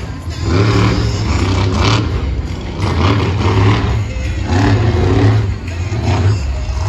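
Monster truck engine revving hard in repeated bursts, each rising and falling about once a second.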